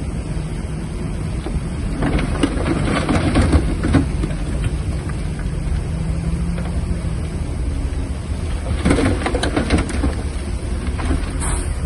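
Shantui DH17-C3 bulldozer's diesel engine running steadily under load, with two spells of crackling: one about two seconds in and another near nine seconds.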